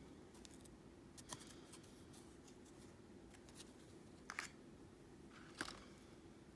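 Near silence with a few faint clicks and light rustles of small dry natural objects being handled, the sharpest about four and five and a half seconds in.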